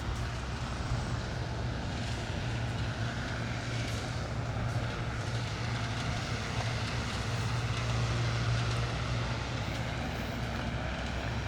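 A steady low engine drone, even in level throughout, over a general outdoor background hum.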